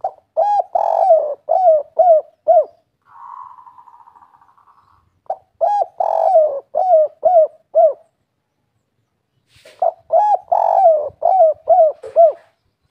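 Spotted dove (tekukur/derkuku) singing its 'kuk 3' coo song: three phrases of six or seven low, quick coo notes each, a few seconds apart. A fainter buzzing sound comes between the first and second phrases.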